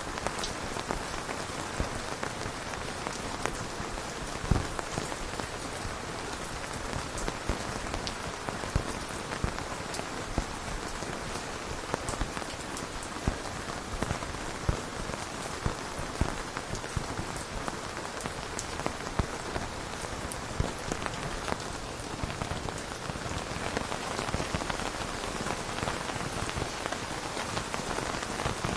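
Steady rain falling, a dense even hiss dotted with sharper single drop hits.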